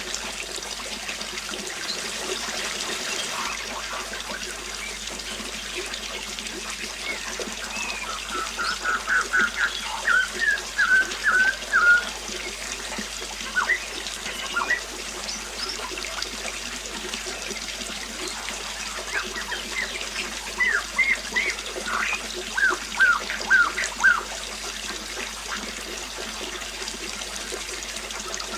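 Water trickling steadily, with a songbird singing two runs of short, quickly repeated notes, one about a third of the way in and another past the middle, and a few single calls in between.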